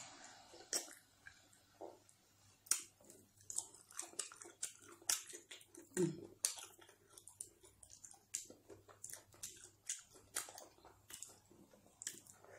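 Close-up chewing and wet mouth smacks of someone eating carrot fufu with ogbono soup: an irregular run of short, soft clicks.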